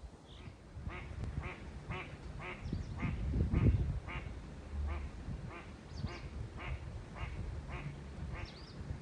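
A duck quacking in a steady series of about fourteen calls, roughly two a second, with a few faint high bird chirps over it. A low rumble swells about three and a half seconds in.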